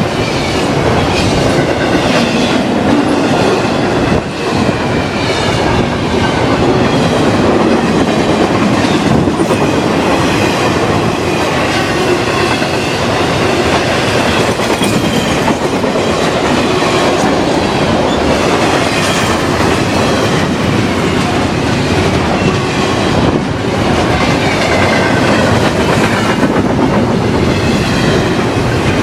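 CSX freight train cars rolling past close by: a loud, steady rumble of steel wheels on the rails that keeps on without a break.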